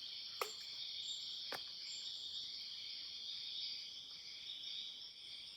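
Steady chorus of insects, a constant high-pitched drone in several close pitches, with two short clicks about half a second and a second and a half in.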